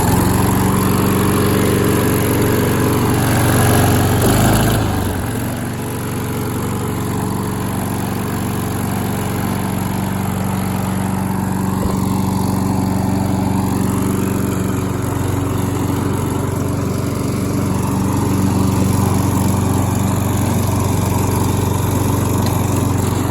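Kohler XT675 single-cylinder engine on a Husqvarna walk-behind lawn mower running just after a cold start, on its automatic choke. The engine note is loud and shifts about five seconds in, then holds steady.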